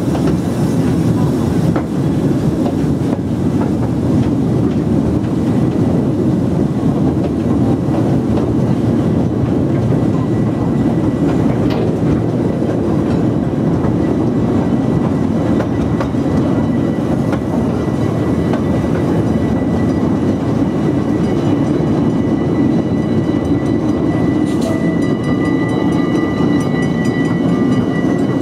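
Steam train's open passenger carriage running along the track, a steady rumble and rattle of wheels and coaches. A high steady whine joins it in the last few seconds.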